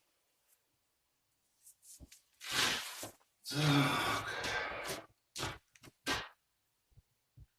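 A man sighs, then says a drawn-out word, with a few short clicks after it.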